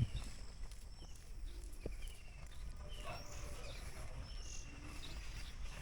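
Bird calls in the open countryside: a short high phrase with a falling note repeats about every second and a half, over a steady low outdoor rumble.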